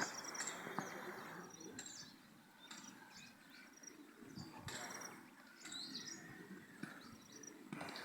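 Faint outdoor ambience: birds chirping in short high calls several times over a low background hiss.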